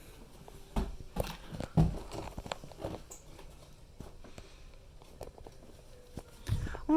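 Irregular crunchy scrapes and light taps of hands working damp sand, packing a small sand volcano, with a few louder scrapes in the first two seconds and another just before the end.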